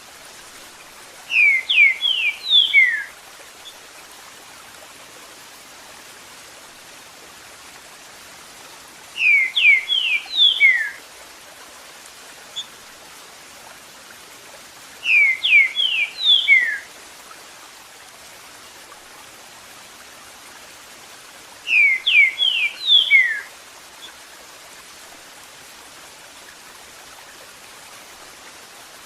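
Green-winged saltator (trinca-ferro) singing its 'Eu sou terrível' song: four phrases, each a quick run of five or six clear, falling whistled notes, several seconds apart. Between them a steady sound of running water.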